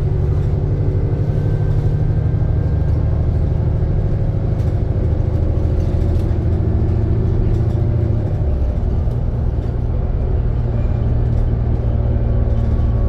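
Alexander Dennis Trident II Enviro400 double-decker bus running on the road, its engine a steady low drone that changes pitch, dropping lower, about eight seconds in.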